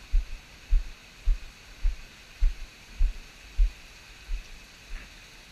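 Low thumps from walking footsteps jolting the handheld camera's microphone, evenly spaced at nearly two a second and fading near the end, over a steady hiss of rain.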